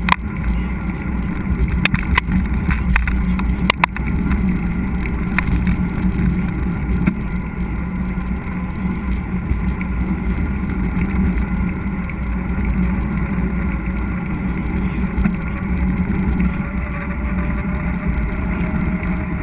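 Steady rumble of a mountain bike riding a dirt trail, with tyre and wind noise on a helmet- or bike-mounted action camera. There are several sharp knocks over the first four seconds.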